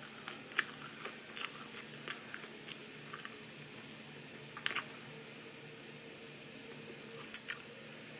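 Open-mouth chewing of broccoli: quick, sharp wet clicks and crackles, thick for the first few seconds, then a short burst about halfway and another near the end, with a quieter pause between.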